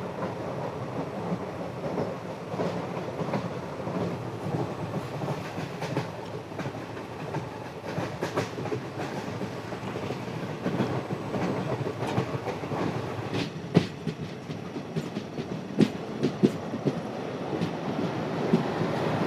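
Passenger train coaches running along the track, a steady rumble with wheels clattering over rail joints and a few sharp knocks in the second half.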